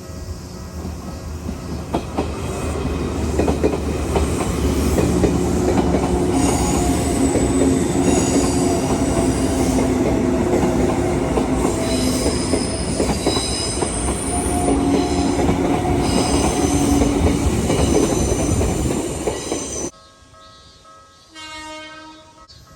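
Izu Kyuko Line train passing close by a level crossing, building up over a few seconds into a loud rumble of wheels on the rails with high-pitched wheel squeal; the sound cuts off suddenly near the end.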